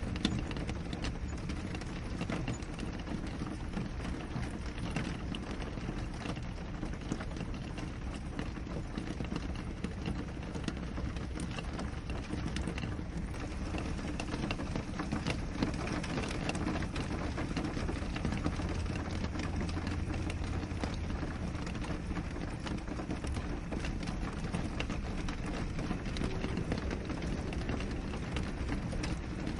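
Steady rain on a window, an even hiss with many small drops ticking irregularly on the glass.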